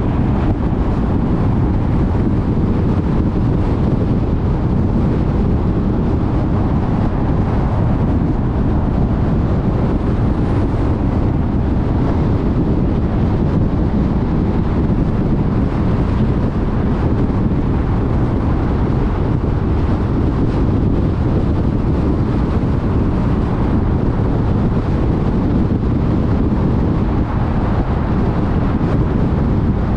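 Steady road noise of a car travelling on a freeway: a constant low rumble of tyres on the road and wind rushing past.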